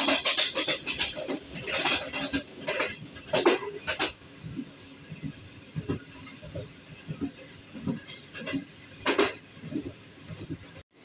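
Moving train heard from inside a passenger coach: irregular rattling and clattering, loudest in the first few seconds, then quieter scattered knocks. The sound cuts out for a moment near the end.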